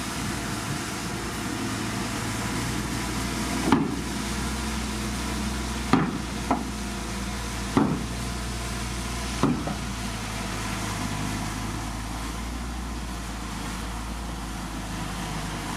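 Diesel engine of a Komatsu D51PX bulldozer running steadily, with about five short knocks from the machine over a few seconds in the middle.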